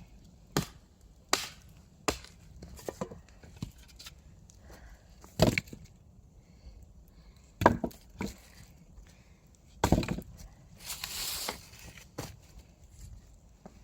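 Firewood being chopped: sharp, separate blows into wood at an irregular pace, about nine in all, with a short rasping noise near the end.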